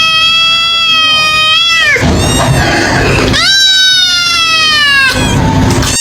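Kitten meowing: a long, high meow that drops in pitch and ends about two seconds in, a rough noisy stretch, then a second long meow that also falls away near the end.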